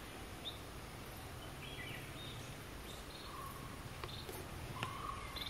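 Faint outdoor background with scattered short bird chirps over a steady low hum, and a few soft clicks in the second half.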